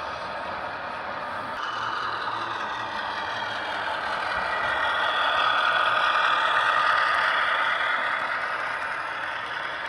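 HO scale model diesel locomotive running along the track: a motor whir with wheels rattling on the rails. It grows louder to a peak about halfway through as it passes close, then fades.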